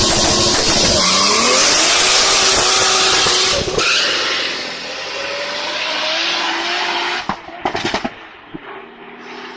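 Turbocharged car engine revving hard, its pitch climbing, with a brief break about three and a half seconds in before it climbs again. About seven seconds in comes a quick cluster of sharp chattering pops, after which the engine sound drops back quieter.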